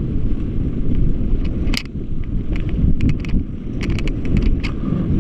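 Heavy wind buffeting on the microphone over rushing river water, with a run of sharp splashes from about a second and a half in as the raft's crew paddles forward hard.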